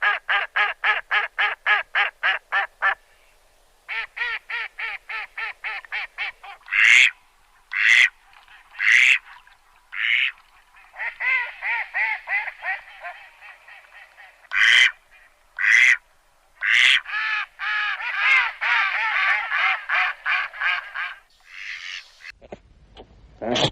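Ducks quacking: runs of quick quacks about five a second, separate louder single quacks, and a denser stretch of overlapping quacking near the end.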